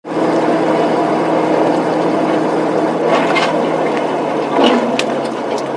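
Steady hum of a moving vehicle's engine and road noise, with a few sharp clicks about three and five seconds in.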